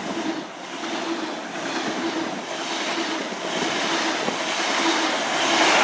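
High Speed Train with a class 43 power car passing through at speed: a steady rushing of wheels on rail and air with a faint steady engine tone, getting louder near the end.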